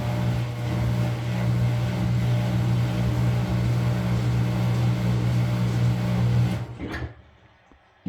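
Maytag Bravos MCT top-load washing machine's motor running with a steady low hum, then shutting off about seven seconds in, leaving near silence.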